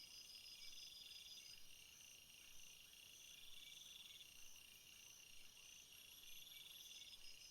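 Faint summer insect chorus in a field: several high-pitched trills overlapping, some steady and some pulsing in stretches of a second or two.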